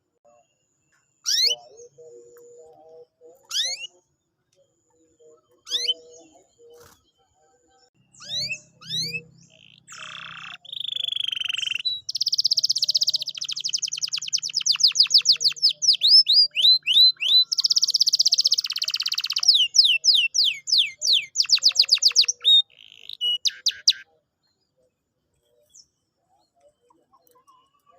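Domestic canary singing: quick downward-sweeping whistled notes, then long, very fast rolling trills through the middle and second half, stopping a few seconds before the end.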